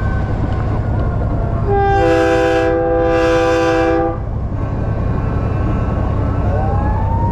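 A multi-chime, train-style air horn blown once for about two and a half seconds, a chord of several steady notes, over the steady low drone of a diesel truck's engine. A faint rising whistle follows near the end.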